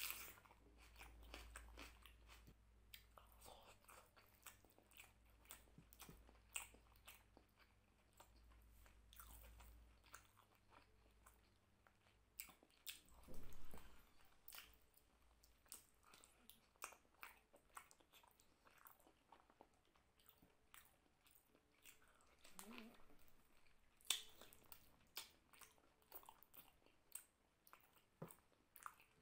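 Close-miked eating sounds of a person chewing mutton curry and rice eaten by hand: wet chewing and biting with scattered mouth clicks and crunches. There is a louder bite about halfway through.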